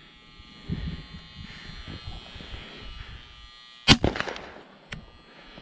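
A single shotgun shot about four seconds in, with a short ringing tail, followed about a second later by a sharp click.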